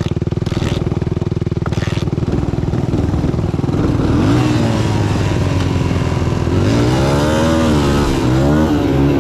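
Motocross bike engine running at a low, even speed, then revving up and down in several rising and falling swells through the second half. A couple of short clacks come in the first two seconds.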